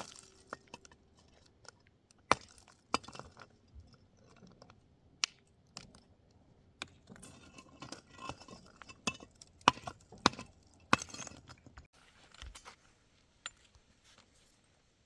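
Irregular sharp clicks and knocks with light clinking and scraping between them, as of objects being handled and set down.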